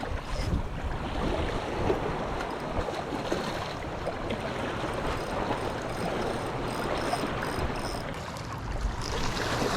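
Sea water washing and rushing among shoreline rocks, a steady unbroken wash.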